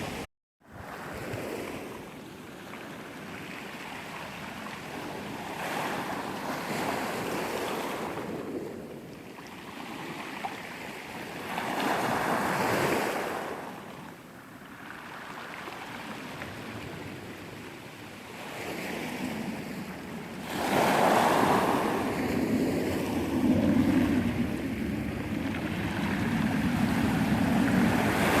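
Sea waves washing onto the shore, the surf swelling and falling back every few seconds, with wind on the microphone. A brief gap of silence just under a second in.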